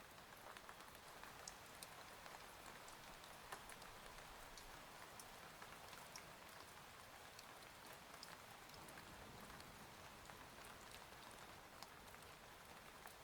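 Faint, steady rain with scattered sharp ticks of single drops.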